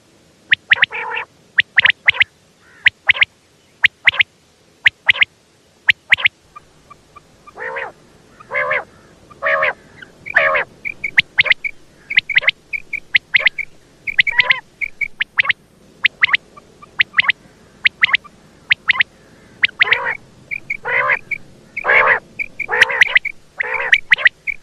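Common quail calls, given as a female quail's call: a fast, uneven series of short, sharp calls, with some lower, nasal calls and strings of quick high chirps in between.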